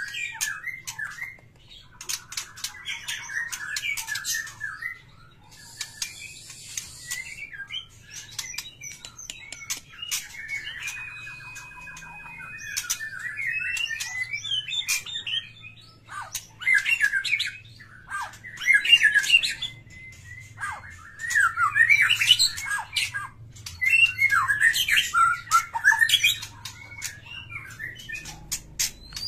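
Aviary birds chirping and squawking in a busy, overlapping chatter of short calls, louder in bursts over the second half.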